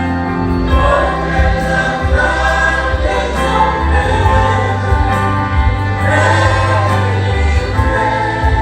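Gospel worship music: a choir singing over sustained chords with a steady, held bass.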